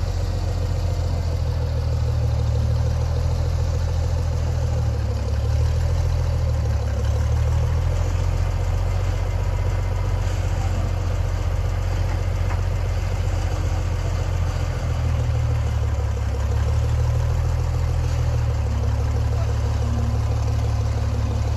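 An engine idling steadily, with a low, even running note.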